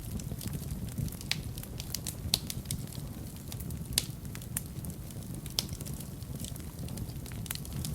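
Wood fire burning in a fireplace: a steady low rumble of flames with irregular sharp crackles and pops, the loudest about two and a half and four seconds in.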